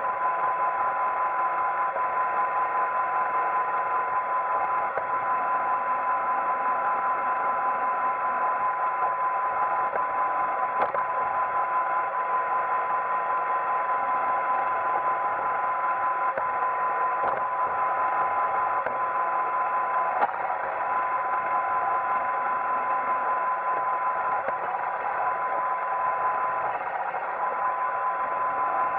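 iRobot Roomba 880 robot vacuum running, with a steady motor whine over a noisy hum and an occasional short knock.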